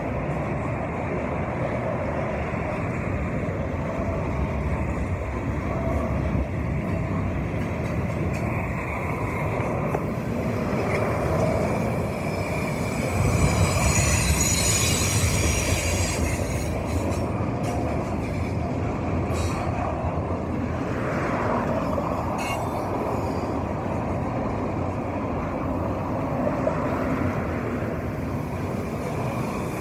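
Union Pacific double-stack intermodal container train rolling past, with a steady rumble of steel wheels on rail. About halfway through it grows louder and a high wheel squeal rings out for a couple of seconds, followed by a few sharp clicks.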